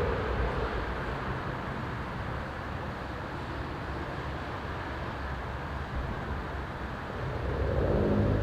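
A car's engine fading away at the start, just after a drive-by, leaving a steady outdoor traffic rumble. Near the end an engine gets louder again, peaking about eight seconds in, on a car fitted with a cat-back performance exhaust.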